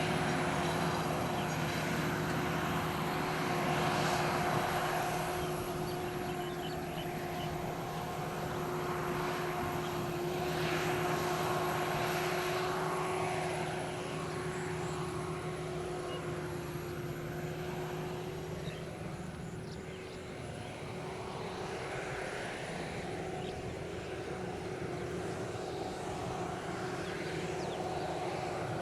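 Sakpattana KM-D#1 rice combine harvester running while it harvests paddy: a steady engine and machinery drone with a constant hum, swelling and fading a little in loudness.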